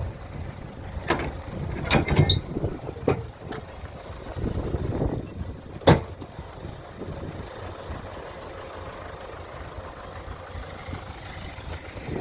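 A small truck's engine running at a low, steady rumble, with a few sharp knocks and clatters in the first half, the loudest about six seconds in.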